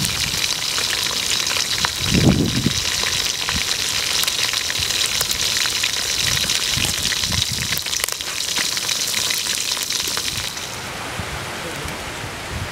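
Pork belly pieces deep-frying in a pot of hot oil: dense sizzling with many small pops. There is a short low thump about two seconds in, and about two seconds before the end the sizzling gives way to a softer, steadier hiss.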